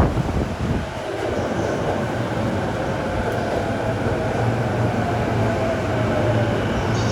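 Electric commuter train moving at a station platform: a steady rumble of wheels and running gear, with a faint motor whine gliding slightly down in pitch through the middle.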